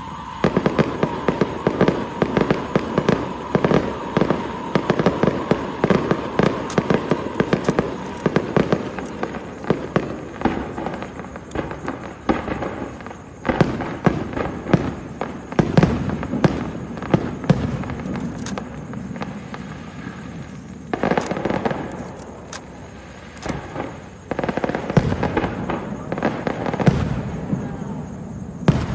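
Fireworks going off in a dense, rapid run of bangs and crackles, with a few louder bursts and two short lulls. A steady whistle-like tone fades away over the first several seconds.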